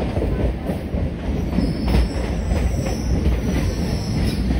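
Passenger train running through a station, heard from on board: a steady rumble of wheels on the track, with a thin high wheel squeal on the rails from about one and a half seconds in until near the end.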